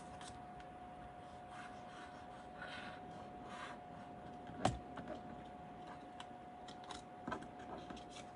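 Soft rustling and rubbing of cardstock panels being handled and pressed down, with one sharp click a little past halfway and a lighter one near the end, over a faint steady hum.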